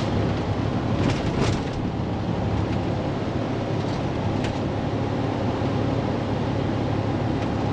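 Diesel engine of a day-cab semi tractor running steadily while driving, heard from inside the cab as a low, even drone, with a few faint clicks or rattles.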